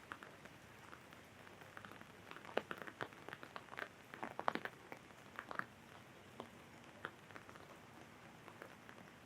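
Raindrops tapping on an umbrella over a soft steady hiss of rain. The drips fall irregularly and come thickest a few seconds in, then thin out.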